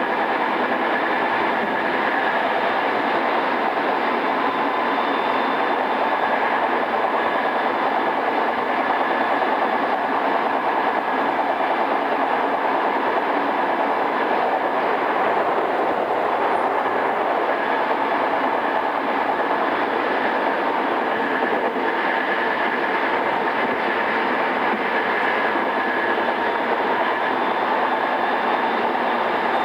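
Running sound inside a JR East E217 series electric multiple unit motor car, before its renewal, under way at steady speed. There is an even rumble of wheels and car body, with faint steady whining tones above it.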